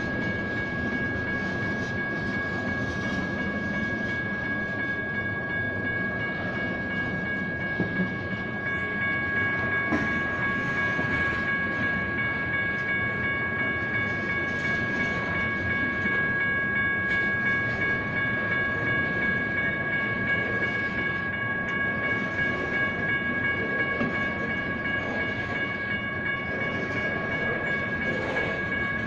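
A freight train rolling past a grade crossing, its cars rumbling and clattering on the rails, while the crossing signal's electronic bells keep up a steady, high ringing tone.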